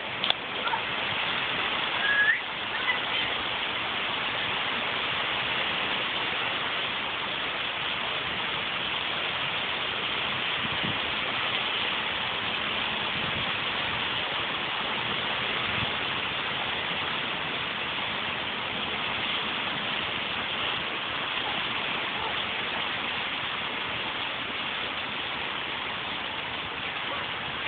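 Steady hiss of rain falling, with a brief high squeak about two seconds in.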